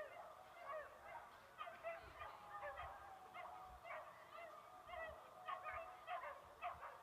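A flock of birds calling faintly, with many short honking and chattering calls overlapping and a few longer held notes.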